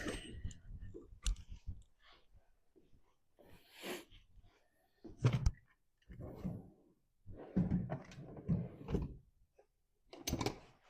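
Intermittent clicks, knocks and rustling of mower parts and tools being handled during disassembly.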